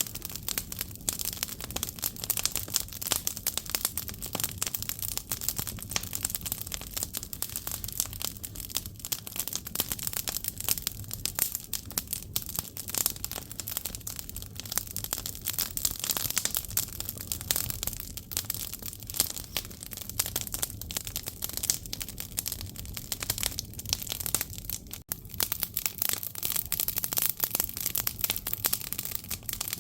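Firewood burning in an agungi, a traditional Korean wood-fired firebox: dense, continuous crackling and popping over a low rumble of the fire.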